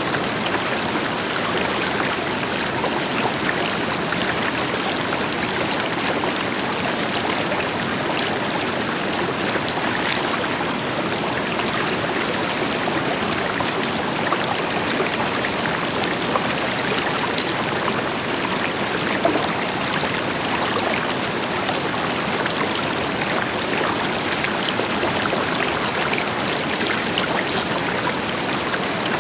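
River water flowing over rocks, a steady rushing with small splashes and gurgles, over the deeper hiss of a waterfall.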